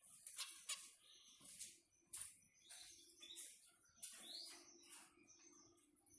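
Zebra finches chirping faintly: a string of short, high calls about two a second, with a few light rustles among them.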